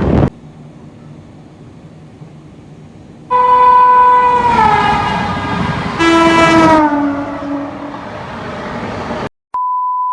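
Indian Railways locomotive horn sounding over a low rumble: a long, higher blast, then a shorter, lower one, both sliding down in pitch as they fade. Near the end a steady electronic beep tone starts.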